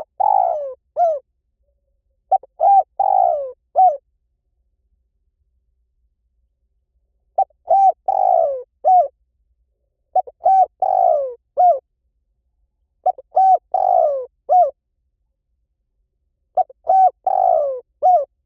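Spotted dove cooing, a recorded lure call: a phrase of two or three short coos, one longer falling coo and a short closing note, given six times with pauses of one to four seconds.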